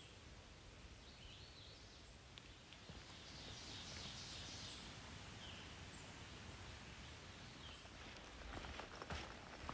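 Faint woodland ambience with a few short, high bird chirps scattered through it. Footsteps crunch on a leaf-littered dirt trail near the end.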